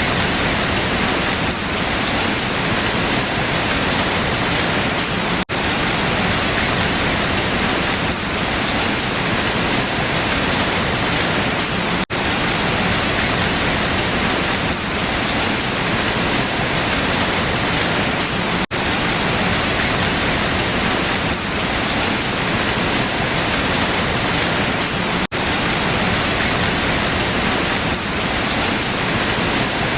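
Steady, heavy rain falling on leaves, an even dense patter. Every six or seven seconds the sound drops out for an instant.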